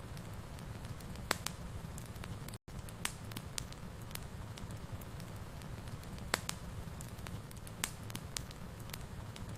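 Wood fire in a fireplace burning with a steady low rumble and hiss, broken by scattered sharp crackles and pops. The sound cuts out completely for an instant a little over two seconds in.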